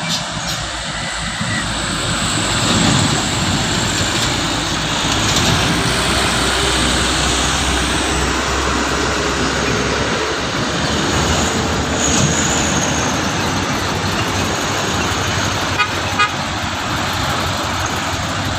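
Heavy truck engine running steadily with traffic noise, and a few short clicks near the end.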